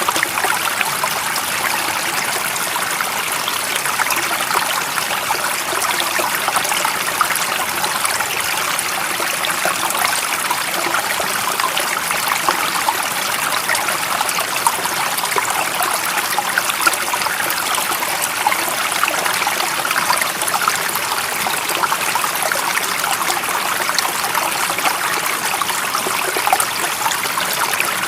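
Running water of a stream, a steady splashing and trickling without pause.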